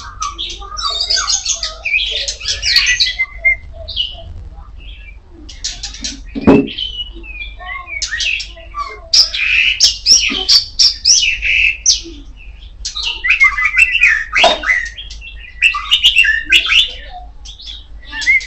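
Oriental magpie-robin (kacer poci) singing a strong, varied song in bursts of quick whistles, trills and harsh scratchy notes, with short pauses between phrases.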